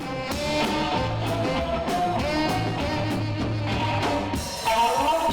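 Live jazz band playing, with guitar over a steady bass line and drums.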